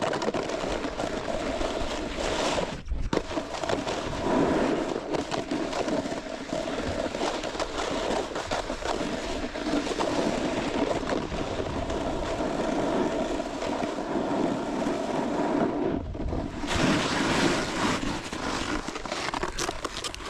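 Snowboard sliding and scraping over snow in a continuous run, a steady rushing hiss with brief breaks about 3 seconds and 16 seconds in.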